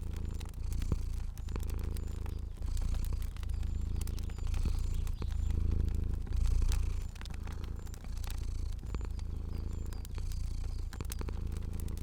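Cat purring in even swells, about one breath a second, with the scattered pops of a crackling fire.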